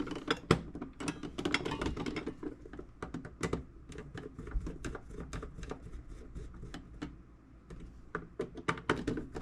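Irregular sharp clicks and taps of hands working on metal tool box parts, busiest in the first couple of seconds and then more spaced out.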